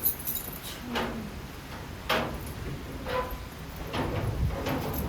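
Strong wind gusting, with a low rumble that swells about four seconds in, and sharp rattling knocks about once a second from the house being shaken by it.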